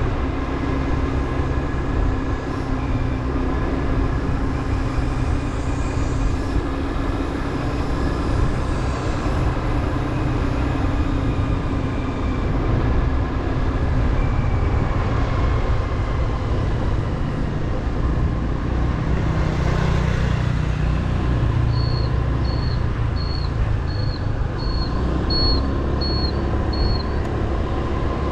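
Motorbike engine running under way, mixed with a steady rush of wind and road noise. Near the end comes a run of eight short, evenly spaced high beeps.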